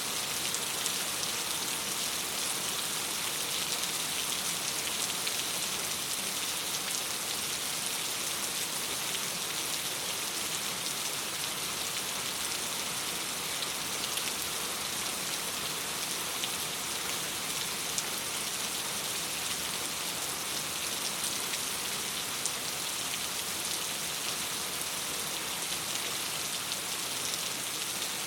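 Steady rain against a window: an even hiss of many small drops that holds the same level throughout.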